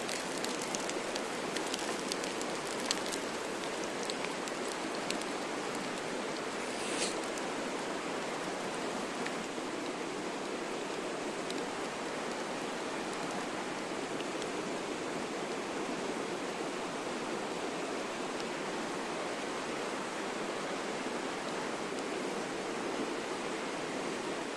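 Steady outdoor rushing noise, with a few faint clicks in the first three seconds and a short hiss about seven seconds in.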